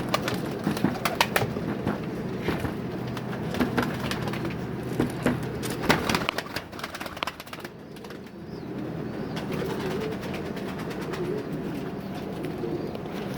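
Turkish pigeons cooing in a low, continuous murmur, with many sharp clicks and taps through the first half or so.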